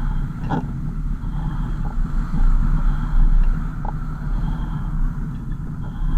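A car driving, with a steady low engine and road rumble and a couple of light knocks.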